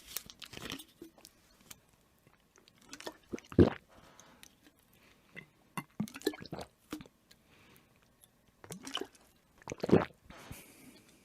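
Wet mouth sounds of someone drinking: small clicks and slurps, with two louder gulps, one about three and a half seconds in and one near the end.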